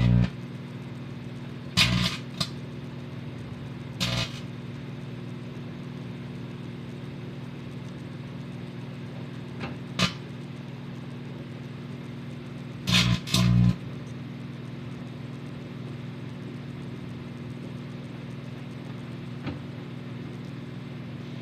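Microwave oven running with a steady electrical hum, while crumpled tin foil inside arcs in loud crackling pops that come irregularly every few seconds.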